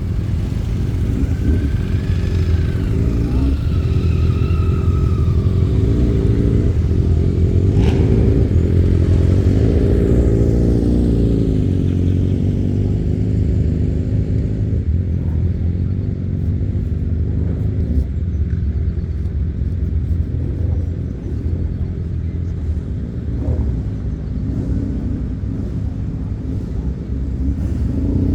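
Several motorcycle engines running in a continuous low rumble, growing louder about eight to twelve seconds in and easing off later.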